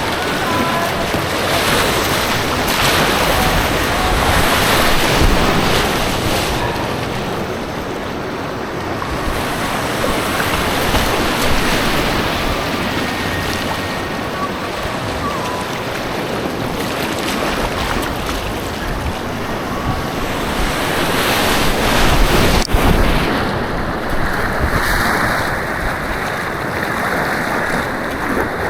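Rushing white water, a loud steady wash of noise, with wind buffeting the camera microphone. A single sharp knock comes about 23 seconds in, after which the sound turns duller.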